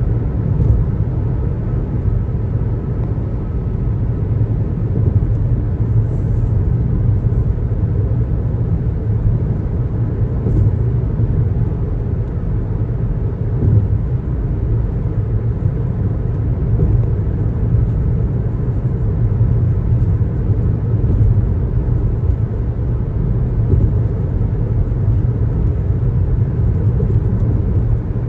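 Steady road noise of a car driving along a highway: an even, low rumble of tyres and running gear with no change in speed.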